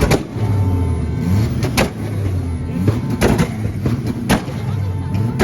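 Car engine running and revving, with several loud sharp bangs at irregular intervals.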